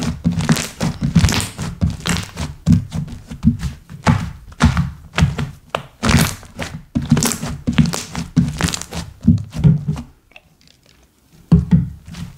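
Slime being squeezed and kneaded by hand: a quick, uneven run of squishy pops and crackles. It stops for about a second and a half near the end, then starts again.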